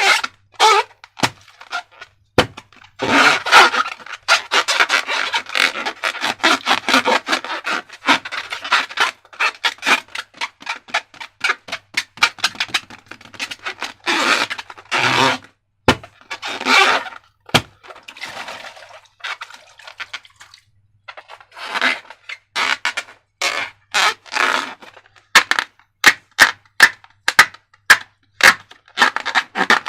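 Slime being squeezed and worked by hand, making dense sticky crackling and wet clicks, with a few sharp snaps standing out.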